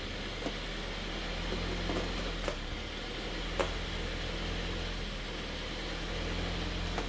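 A steady low mechanical hum with a light hiss, broken by a few faint clicks and taps.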